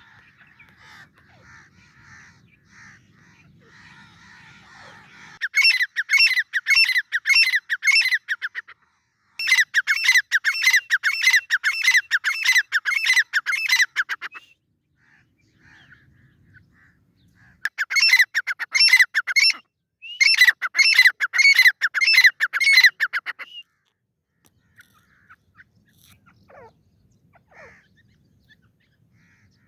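Grey francolin calling: loud, high-pitched notes repeated rapidly, several a second, in four long bouts with short pauses between, and fainter calls before and after.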